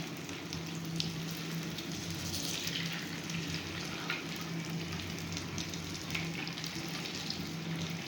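Cheese-filled bread rolls frying: a steady sizzle with scattered crackles, over a low steady hum.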